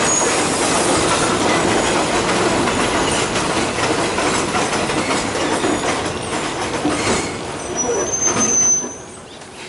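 Passenger train running, heard from an open carriage window as it draws into a small halt: a steady rumble of wheels on the track, a brief high squeal near the end, then the noise falls off sharply as the train slows to a stop.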